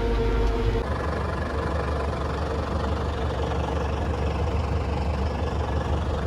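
Farm tractor engine running steadily as heard from inside the cab, its low drone changing pitch about a second in.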